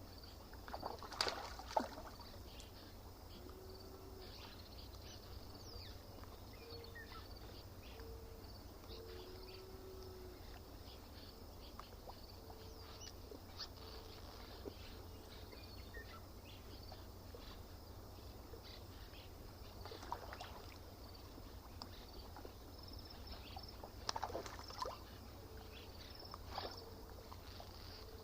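Lakeside nature ambience: water lapping or splashing briefly at the shore a few times, over a steady high insect hum and short low repeated calls.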